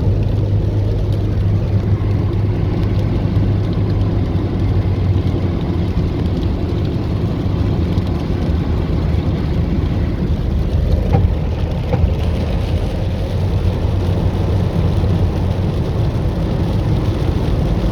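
Steady road and engine rumble inside a car driving on wet roads in heavy rain, with two brief faint ticks near the middle.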